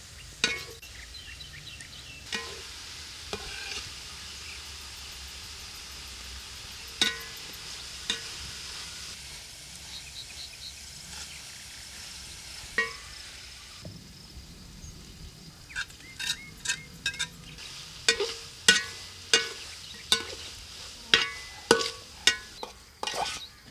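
Food sizzling in a pan while being stirred, the spoon knocking and scraping against the pan now and then, with the strokes coming more often in the last third.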